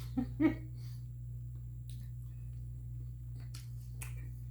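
A brief voiced laugh-like sound at the start, then a steady low hum with a few scattered sharp mouth clicks of someone eating.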